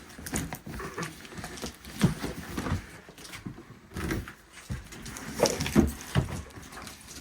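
Irregular knocks and clatter of objects being handled and shifted about in a box, with sharper knocks about 2 s in and again around 5.5 to 6 s.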